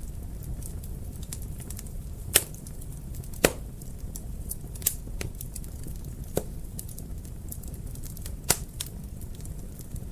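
Wood fire in a fireplace crackling: a steady low rumble of the flames under scattered small clicks and a few sharp pops, the loudest about two and a half and three and a half seconds in and again near the end.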